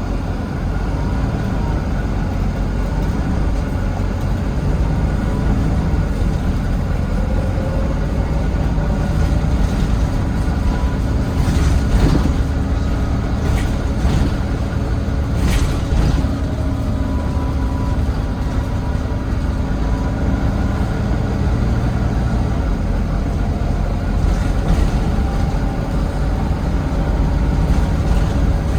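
Volvo D9B diesel engine of a Volvo B9TL double-decker bus running, heard from the back seat, with faint whining tones that rise and fall in pitch. A few short, sharp noises come about halfway through.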